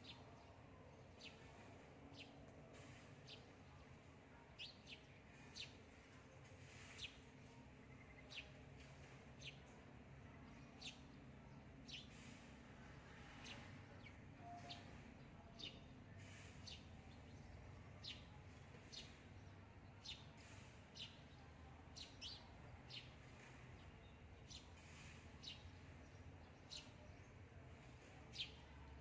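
Faint bird chirps: short, quick falling notes repeated about once a second, irregularly, over a low steady background hum.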